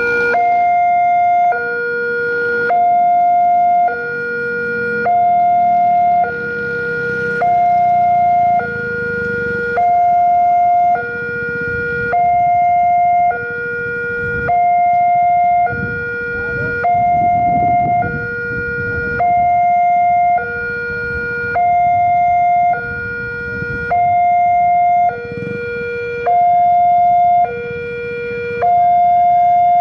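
Railway level-crossing electronic warning alarm sounding a steady hi-lo two-tone pattern, each note held about a second, which warns that a train is approaching. A low rumble runs under it around the middle.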